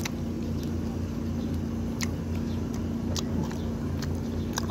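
Chewing crispy fried chicken: a few sharp crunches, spaced about a second apart, over a steady low hum.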